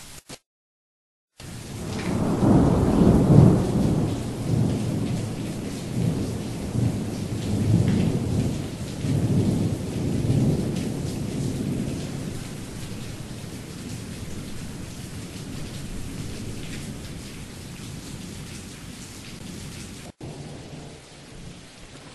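Thunder rolling over steady rain. After a brief cut-out, a long low rumble builds about a second and a half in, peaks, rolls on in several surges and slowly fades, while the rain hiss goes on underneath.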